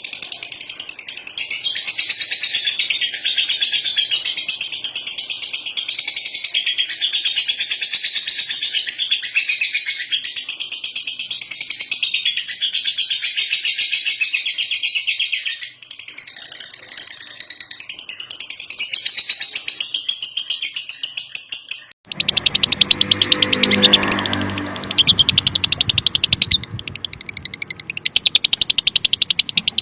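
Lovebird chattering in a long, fast, unbroken stream of high, rattling chirps. The chatter dips briefly about two-thirds of the way through. Near the end it changes abruptly to a louder, rougher passage.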